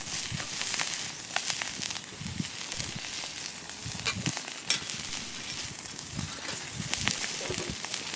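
Sizzling and crackling from a wood fire under a thick steel griddle (teppan): a steady hiss with frequent sharp pops and crackles.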